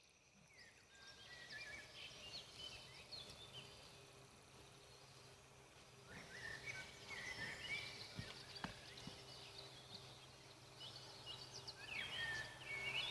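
Faint birdsong: quick twittering chirp phrases in three bursts, near the start, in the middle and near the end, with a couple of sharp pops about eight seconds in.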